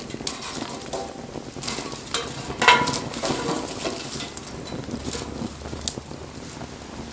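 Wood fire burning, crackling and hissing with scattered sharp pops, the loudest burst of crackling about two and a half seconds in.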